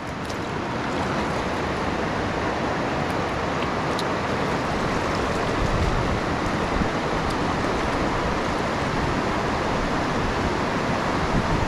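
Rushing river rapids: a steady, even rush of fast water around the kayak, building a little in the first second or two.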